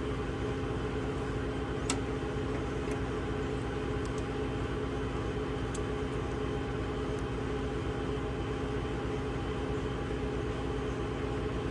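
An engine idling steadily, with a single sharp click about two seconds in.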